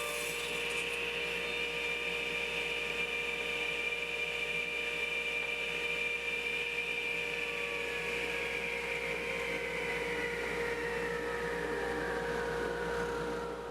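Radial arm saw motor and blade running free with a steady whine, not cutting; in the second half its higher pitch slowly drops as the blade winds down.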